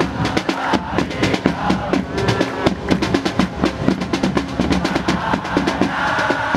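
Football supporters' drums beating a fast, continuous rhythm with snare-like rolls and bass drum hits, as the supporters' section sings along.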